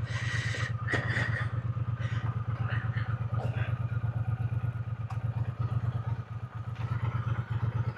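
Triumph motorcycle engine idling steadily at a standstill, a low, fast, even pulse.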